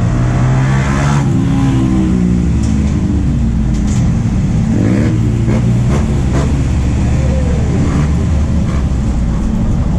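MAN D0834 four-cylinder diesel of a VW 17.230 OD bus running under way, its pitch rising and falling as it revs up and eases off.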